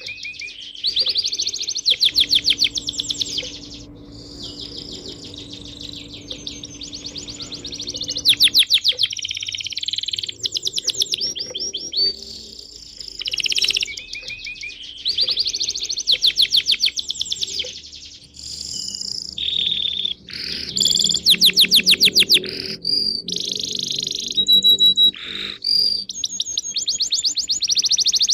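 Small songbirds chirping and twittering in rapid, overlapping trills of quick high notes, with bursts coming every second or two.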